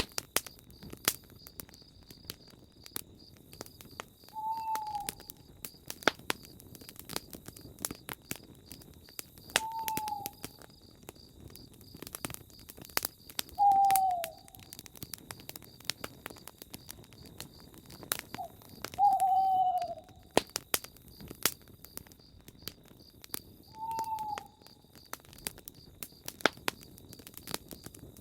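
Campfire crackling, with an owl hooting: a single short, slightly falling hoot about every five seconds.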